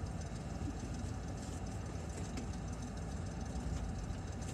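Car engine idling, a steady low rumble heard from inside the cabin, with a few faint rustles as someone reaches into the back seat.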